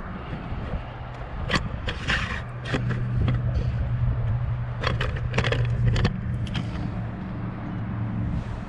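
Fuel transfer pump humming steadily as it pushes diesel through the lines and bleeds air out of the fuel system before fuel reaches the filter, with scattered sharp clicks and taps.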